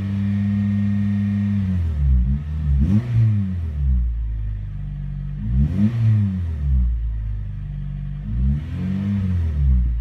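Honda Integra Type R DC5's K20A 2.0-litre four-cylinder engine revved while stationary, heard from inside the cabin. It is held steady at about 3,000 rpm for a couple of seconds, then blipped three times, the pitch rising and falling back each time.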